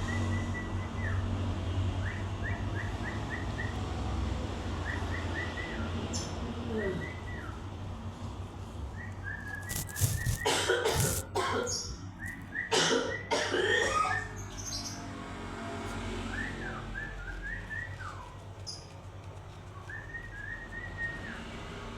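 Long-tailed shrike (cendet) giving short, repeated whistled notes, with a cluster of loud scratchy bursts about halfway through, over a low steady hum.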